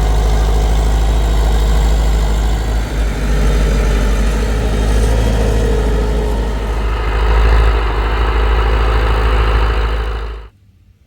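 Tractor engine running steadily with a strong low rumble, which cuts off sharply about ten and a half seconds in.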